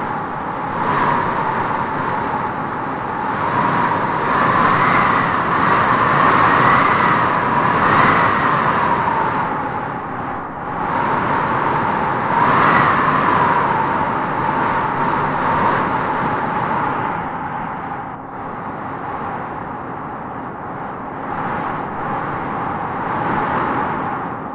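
Wind howling in gusts: a whistling tone that rises and falls in pitch over a steady rush, swelling strongest about a fifth of the way in and again about halfway through.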